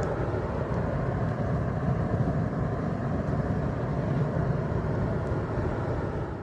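A motor vehicle running steadily: an even, low rumble with no change in pace.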